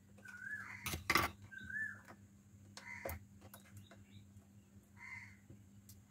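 Faint, short chirps of a bird repeated every second or so, mixed with sharp clicks and taps from a laptop keyboard being unscrewed and pried loose by hand; the loudest click comes about a second in.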